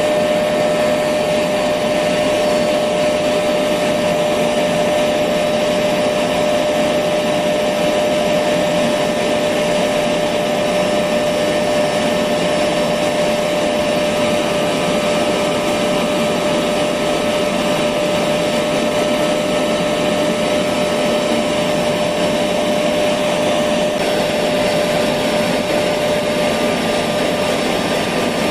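Electric vacuum cleaner running continuously at a constant speed: an even rushing noise with a steady motor whine.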